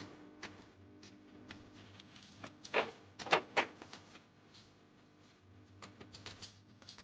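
Scattered light knocks and clicks of wooden cage parts being handled and set down, with three louder knocks close together about three seconds in.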